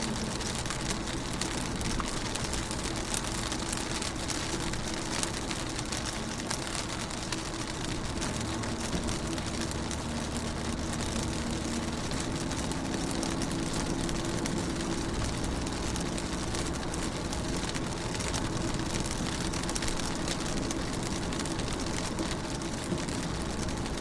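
Rain pattering on a car's window and body, heard from inside the car as a steady, even patter of many small drop ticks, with a faint low hum underneath.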